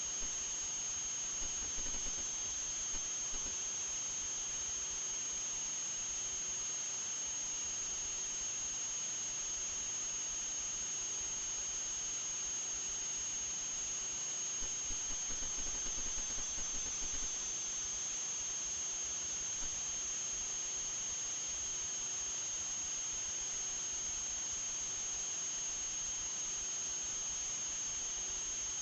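A steady high-pitched whine over a constant hiss, holding one pitch throughout with no rise or fall.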